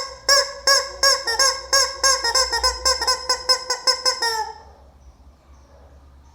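A chicken calling in a rapid run of loud, repeated squawks that come faster and faster, then stop about four and a half seconds in.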